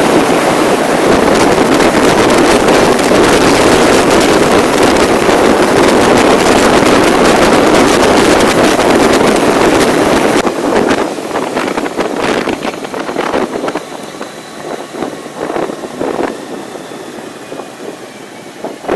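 Loud, steady noise of a moving vehicle ride, with wind on the microphone. About ten seconds in it drops to a quieter rumble with scattered knocks.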